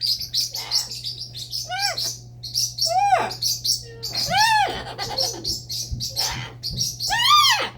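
Pet parrot whistling: four loud whistles that rise and fall in pitch, the last one longest and loudest near the end, over constant rapid high-pitched chirping.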